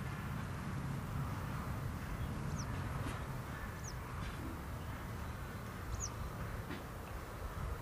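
Outdoor ambience: a steady low rumble with a small bird's short, high chirps, three of them spaced a second or two apart.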